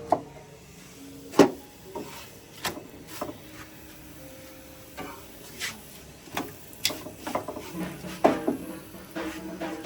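Scattered light knocks and clicks of objects being handled, about a dozen in all, with the loudest about a second and a half in.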